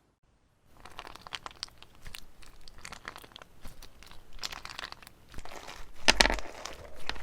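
A brief silence, then slime being squeezed and pressed with a dense run of crinkly, crackling sounds, loudest about six seconds in.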